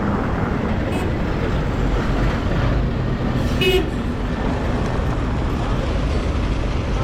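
Steady street traffic noise, with a short vehicle horn toot about three and a half seconds in.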